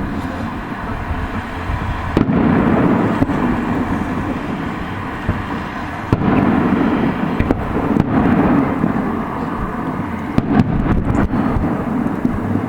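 Fireworks going off: sharp bangs every second or two over a continuous, dense wash of noise from overlapping bursts, with a quick cluster of bangs near the end.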